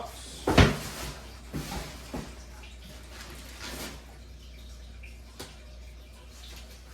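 Cardboard packaging being handled and opened: one loud scraping rustle about half a second in, then a few softer rustles and scrapes that die away after about four seconds, over a low steady hum.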